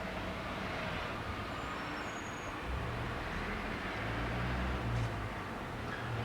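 Steady low engine rumble under a hiss, growing a little fuller about halfway through.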